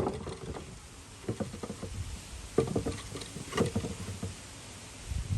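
Light knocks and clatter in several short bursts: a freshly cut board of wood being handled and shifted about.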